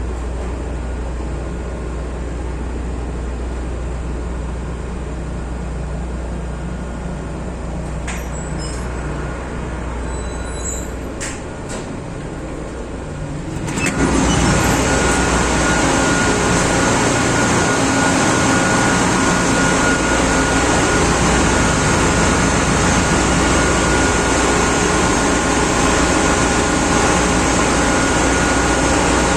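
Ship's engine-room machinery running: a steady low hum with a few clicks, then about halfway through a much louder, steady machinery noise with a thin high whine sets in suddenly and holds.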